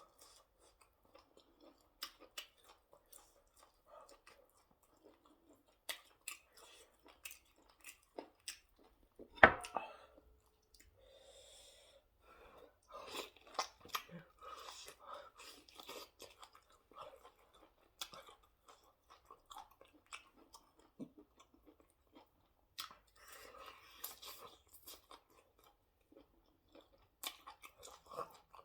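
Close-up chewing and mouth sounds of a person eating fufu with ogbono soup and fish, with scattered small clicks. About nine and a half seconds in comes one sharp knock, the loudest sound, followed by a brief ringing tone.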